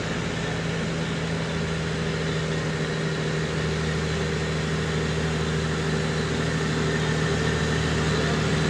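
Truck engine idling steadily, growing a little louder towards the end.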